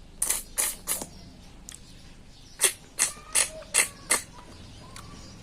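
Close-up mukbang eating sounds: short sharp mouth smacks and clicks while chewing food, three in quick succession in the first second and five more about three to four seconds in.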